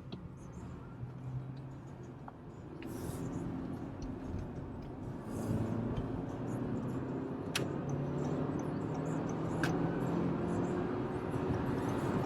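Car engine and road noise heard from inside the cabin while driving; the engine hum climbs slowly and grows louder about halfway through, with a few sharp clicks.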